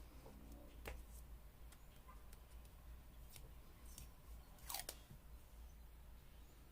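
Near silence with faint paper-craft handling: a few light clicks and rustles of paper and washi tape, the loudest a brief crisp snip a little before the five-second mark.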